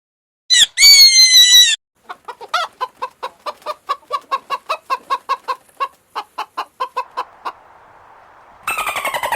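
A rooster crows briefly, then a chicken clucks rapidly, about four clucks a second. Near the end a different loud, fast-pulsing call falling in pitch begins.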